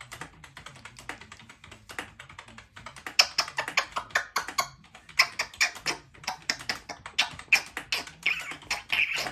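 Typing on a computer keyboard: quick, irregular keystrokes, several a second.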